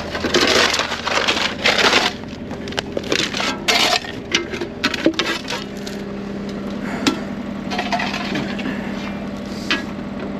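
An engine runs steadily under a run of crunching and cracking as dirt and rock are dug out of a drainage trench; the crunching is densest over the first five seconds, and a few sharp cracks follow later.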